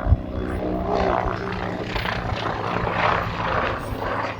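AH-129D Mangusta attack helicopter in flight: steady rotor and turbine engine sound with a low hum, and a brief thump just after the start.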